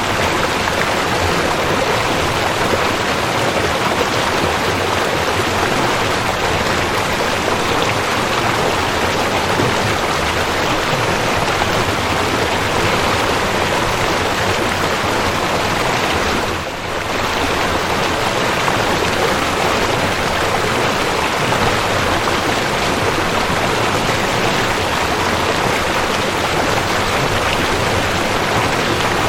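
Waterfall: a steady rush of falling water, with a brief dip in level a little past the middle.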